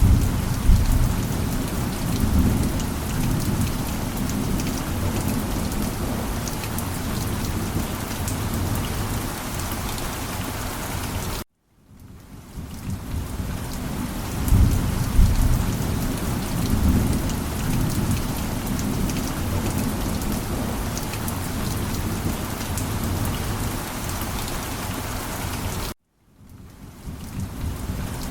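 Steady heavy rain with deep rolling thunder rumbling again and again. The sound cuts out abruptly twice, about eleven seconds in and near the end, then fades back in each time, the joins of a looped ambience recording.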